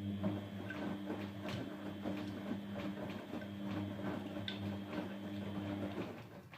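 Grundig GWM4762WE20 washing machine giving a steady low hum with light clicks and rattles over it; the hum stops about six seconds in.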